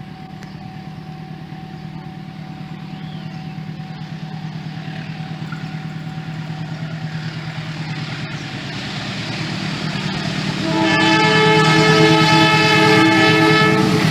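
Double-headed diesel locomotives approaching, their engines running with a low pulsing and growing steadily louder. About eleven seconds in, a locomotive air horn sounds one chord of several notes for about three seconds.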